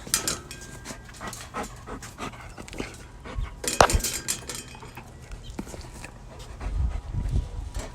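Golden retriever panting in quick, repeated breaths. A sharp knock about four seconds in is the loudest sound, and there is low bumping near the end.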